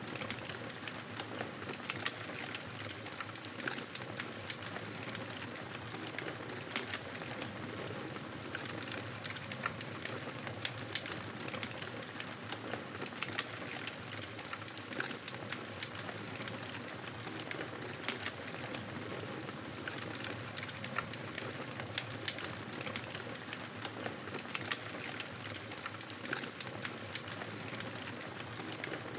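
Wood fire in a fireplace crackling: a steady soft hiss of burning with frequent small, sharp pops and snaps scattered irregularly throughout.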